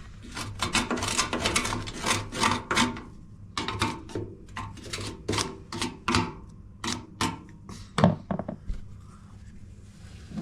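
Irregular rubbing and scraping strokes from hand work on the bottom of a washing machine, with a sharper knock about eight seconds in.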